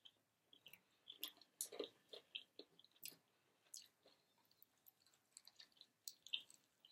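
Close-up chewing and lip-smacking while eating fried chicken wings, a string of short, soft, irregular mouth clicks and smacks.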